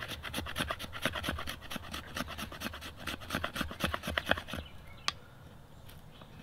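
Squared 90-degree spine of a Condor Terrasaur knife scraped rapidly back and forth along wood, a quick run of rasping strokes, several a second, that stops about four and a half seconds in. A single sharp click follows about half a second later.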